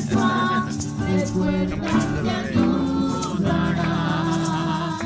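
Group singing a song with instruments, with a tambourine or shaker-like rattle.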